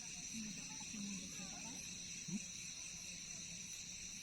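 Steady, high-pitched chorus of night insects trilling at several pitches at once, with faint distant voices in the first half.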